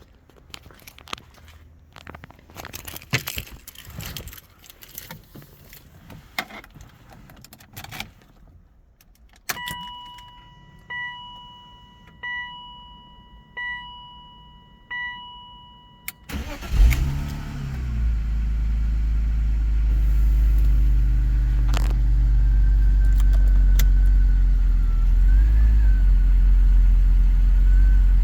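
Keys jangling and small clicks inside a car, then a dashboard warning chime sounds five times about every second and a half. Then the 2001 BMW Z3's engine is cold-started: it cranks, catches with a brief flare of revs, and settles into a steady idle.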